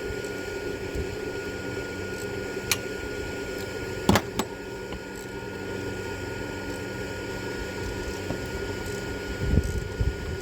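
A steady mechanical hum, like a running fan or compressor, with a faint high tone over it. A few sharp clicks from hand tools come through it, one about three seconds in and a louder pair about four seconds in.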